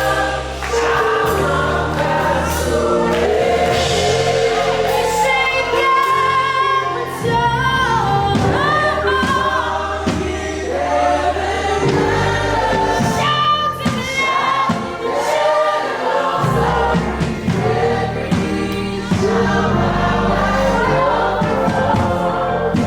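Live gospel worship music: a choir of voices singing over sustained keyboard chords and bass.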